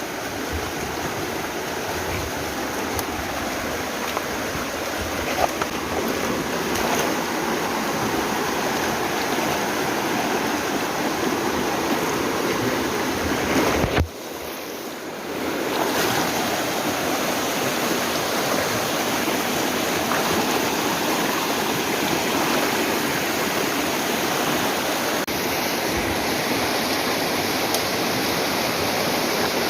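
Mountain river water rushing steadily over rocks, a continuous loud rush that dips briefly about halfway through before resuming.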